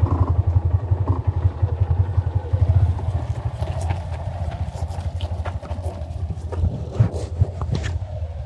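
Motorcycle engine running at low revs on a rough, stony downhill track. The engine eases about three seconds in, and scattered clicks and knocks from the bike jolting over loose stones follow.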